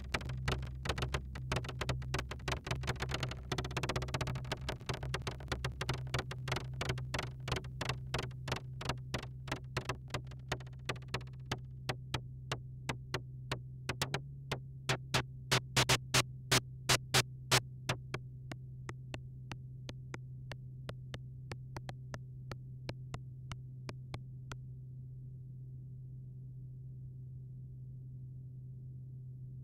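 Malekko Manther analog synthesizer playing a fast repeating sequence. About a third of the way in the bright upper tone drops away, leaving short, clicky plucked notes. These stop a little past the middle, and a steady low hum remains to the end.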